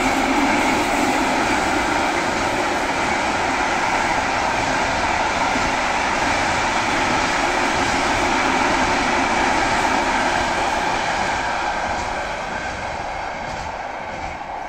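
A train passing on the rails, a steady loud rumble of wheels on track that begins to fade away near the end.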